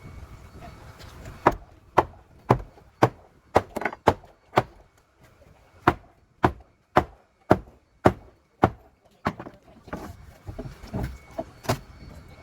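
Repeated sharp blows of a tool striking wood, about two a second, in two runs of about seven strikes separated by a short pause, followed by softer, irregular knocking near the end.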